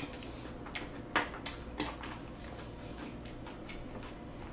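Eating utensils clicking and tapping against dishes, about six sharp clicks spread over a few seconds.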